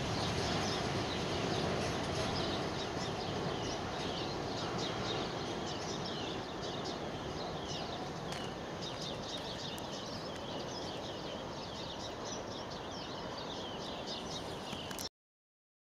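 Rumble of a container freight train slowly fading as it moves away, with small birds chirping repeatedly over it from a few seconds in. The sound cuts off suddenly near the end.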